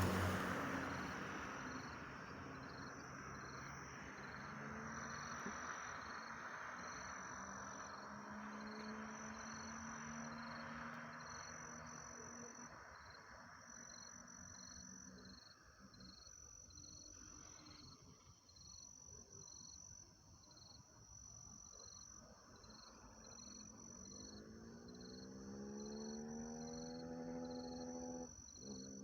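Crickets chirping in a steady, even rhythm. A passing vehicle's noise fades away over the first several seconds, and an engine's rising hum comes in near the end.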